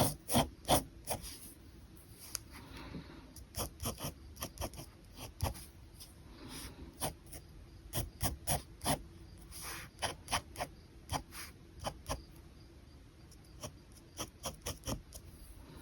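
Pen scratching on paper in quick, irregular short strokes and ticks, with a few longer scratchy strokes now and then.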